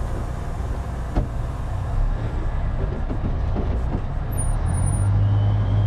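Motor vehicle running with a steady low rumble, with a single sharp click about a second in and a louder low hum swelling near the end.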